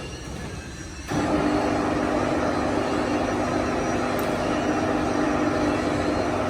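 A steady mechanical drone with a low, even hum starts abruptly about a second in and runs on.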